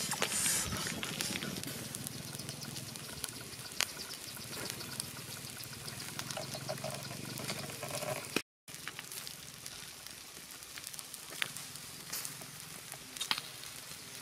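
Crackling and sizzling of food cooking, with scattered sharp pops. The sound cuts off briefly a little past the middle.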